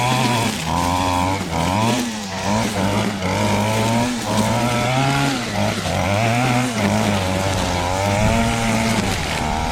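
Stihl FS38 string trimmer's small two-stroke engine running at working throttle, its pitch dipping and climbing back over and over as it cuts through overgrown growth.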